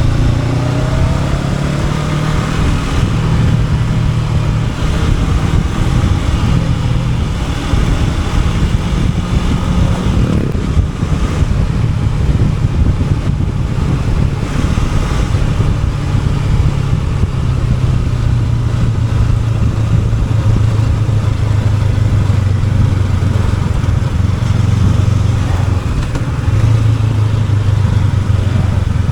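Honda NX500's parallel-twin engine pulling the motorcycle along a winding road. The engine pitch climbs in the first second and drops sharply about ten seconds in, then runs steadily.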